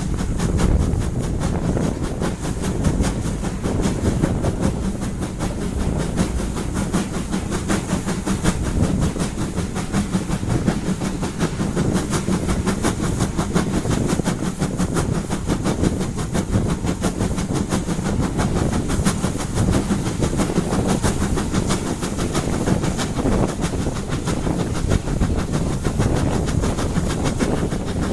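Steam-hauled heritage train running, heard from an open carriage window: a steady rumble and clatter of wheels on the track.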